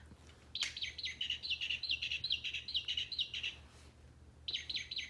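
Northern mockingbird singing: a quick run of short, high, repeated notes lasting about three seconds, a brief pause, then the song starts again near the end.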